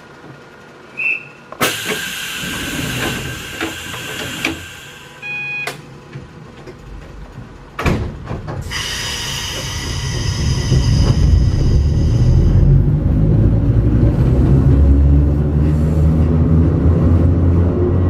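Hakone Tozan Railway Moha 1-class electric railcar standing, then setting off. A short beep, repeated hisses of air and a sharp clunk come first. From about ten seconds in, the low rumble of the motors and wheels builds as the car gets under way.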